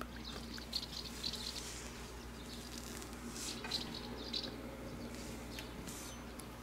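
Birds chirping in short high calls, with scattered small clicks of cats crunching dry kibble.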